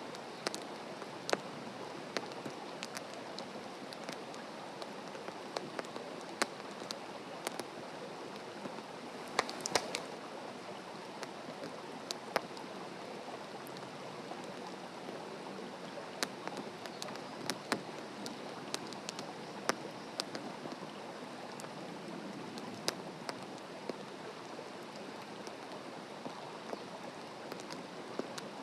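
Wood campfire burning in a fire stand, crackling: irregular sharp pops over a steady hiss, with a quick run of louder pops about ten seconds in.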